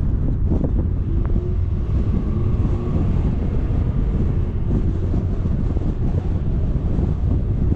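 Wind buffeting the microphone of a camera on the move, a loud, steady low rumble.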